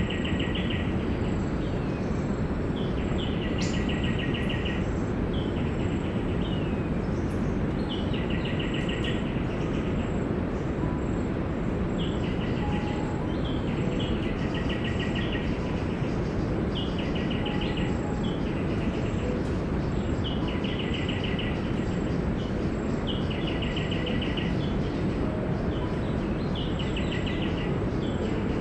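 A bird calling over and over: a short falling note, then a rapid run of notes lasting about a second, repeated every two to three seconds over a steady rushing noise.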